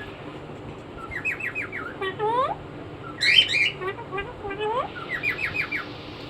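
Pet hill myna calling angrily: quick runs of short clipped notes, rising whistled glides, and one loud harsh squawk about three seconds in.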